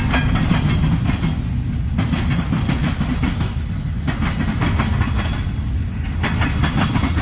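Norfolk Southern manifest freight train's cars rolling past close by: a steady low rumble, with the wheels clicking over rail joints in clusters every second or two.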